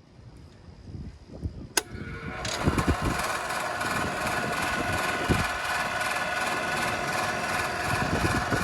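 Trane XR11 2-ton central air conditioner condensing unit starting up: its four-blade condenser fan spins up first, a sharp click comes just under two seconds in, and about half a second later the compressor starts and the unit settles into a loud, steady running hum.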